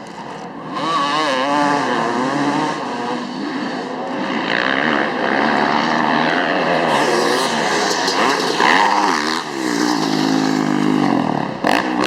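Several dirt bike engines revving on a race track, their pitch rising and falling over and over as the bikes accelerate and back off. There is a brief sharp noise near the end.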